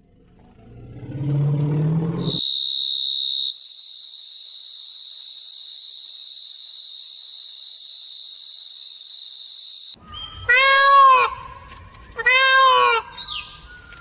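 Two loud meows from a domestic cat, each under a second long and about a second and a half apart, near the end. Before them comes a low rising call lasting a couple of seconds, then a steady high whistle-like tone held for about seven seconds.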